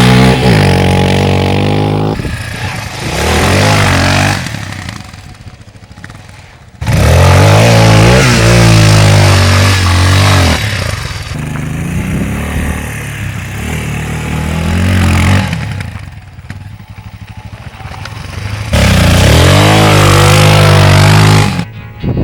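CSC TT250 dirt bike's engine revving up and down while ridden off road, its pitch rising and falling with the throttle. Loud close passes alternate with quieter stretches, and the sound changes abruptly several times.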